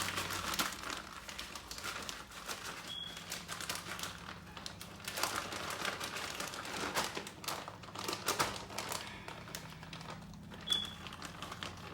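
Crinkling and crackling of a bag of Takis coating as a chicken tender is rolled around inside it, in irregular bursts. Two short high-pitched tones sound about 3 seconds and 11 seconds in.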